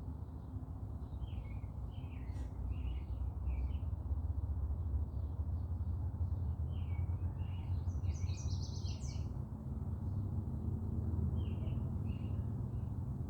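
Small birds chirping and calling off and on, with a quick run of high notes about eight seconds in, over a steady low rumble.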